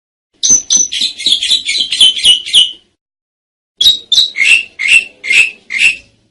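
Asian pied starling (jalak suren) singing: a quick run of harsh, chattering notes for about two seconds, a pause of about a second, then a series of about six separate squawky notes.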